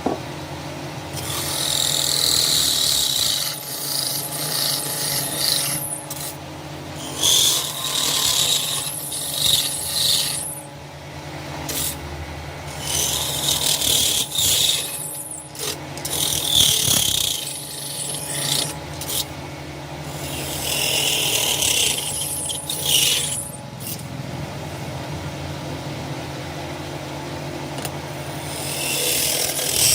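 Wood being worked with an abrasive hand tool: rasping, rubbing strokes in runs of a few seconds with short pauses between them, over a steady low hum.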